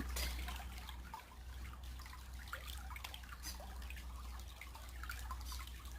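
Shallow creek water trickling, with scattered faint drips and small splashes.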